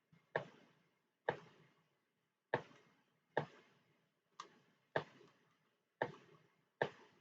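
Computer mouse clicking: about eight sharp single clicks at uneven intervals of roughly a second, each with a short fading tail.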